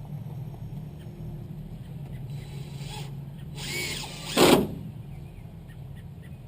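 A power drill running in three short bursts, the last and loudest about four and a half seconds in, over a steady low hum.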